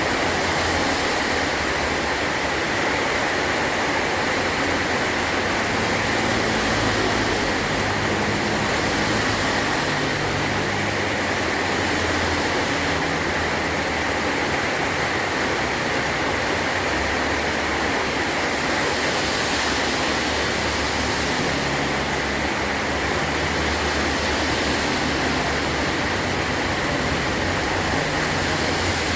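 Heavy rain drumming steadily on a tin roof, a dense, even downpour with a low rumble underneath.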